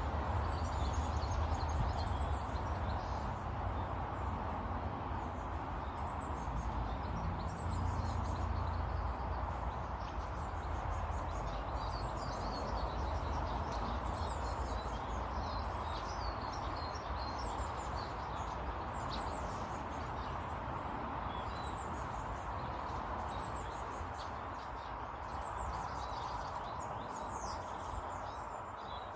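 Many small birds chirping and calling over one another, with short high chirps throughout, over a steady background hiss and low rumble.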